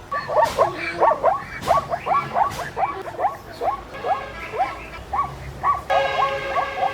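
An animal giving a rapid string of short, high, falling yips, about two to three a second, with a longer drawn-out cry near the end.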